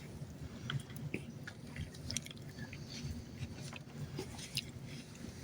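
Quiet chewing close to the microphone: scattered small clicks and ticks over a low steady background hum.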